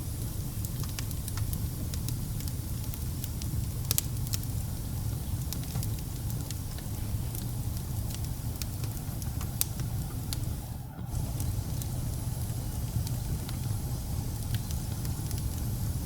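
Wood fire burning in a fireplace: a steady low rumble of flames with irregular crackles and sharp pops, two of them louder about four and nine and a half seconds in.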